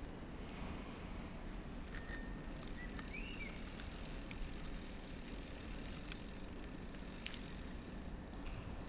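Steady low background hum with two quick metallic bell-like dings about two seconds in, then a couple of faint short chirps. Light clicking and clinking near the end.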